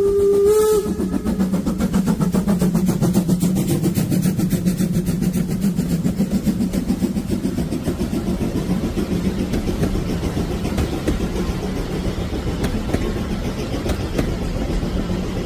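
Steam locomotive 99 1775-8's whistle ends just under a second in. The engine then pulls away with a rapid, even beat of exhaust chuffs.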